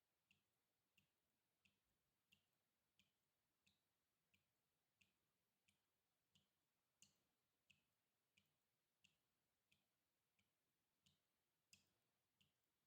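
Water dripping in a steady, even rhythm, about three drips every two seconds, each a faint short plink.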